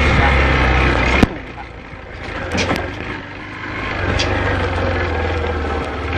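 Small motorcycle engine running steadily. About a second in there is a sharp click and the sound drops abruptly to a quieter stretch with a few faint clicks. The engine sound builds back up from about four seconds in.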